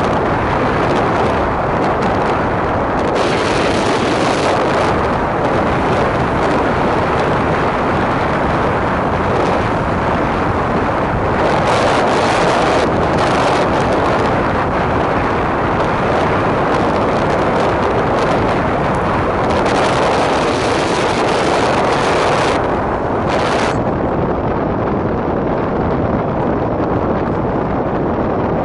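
Blizzard wind blowing hard across the microphone: a loud, steady rush that swells in gusts and eases again every few seconds.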